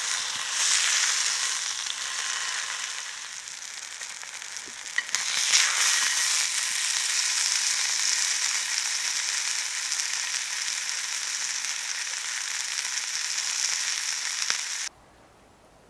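Food sizzling in a frying pan: a steady, hissing sizzle that gets louder about five seconds in and cuts off abruptly near the end.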